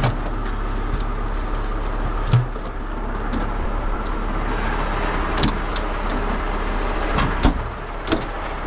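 A heavy truck's diesel engine running steadily, with a few sharp clanks scattered over it.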